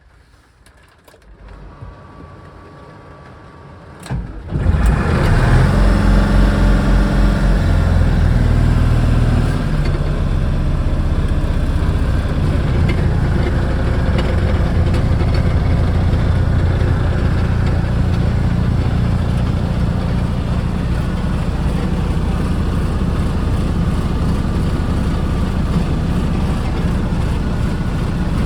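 1990 Unimog U1550L's Mercedes diesel engine starting at once on the first turn of the key, after a click about four seconds in. It runs fast and uneven for a few seconds, then settles to a steady idle.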